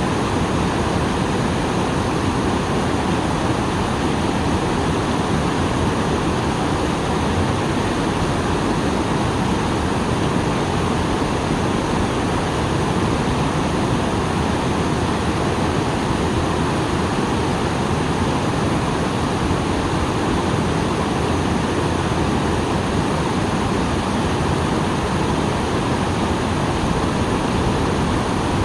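Small waterfall pouring after rain: a steady, unbroken rush of falling water, full and deep.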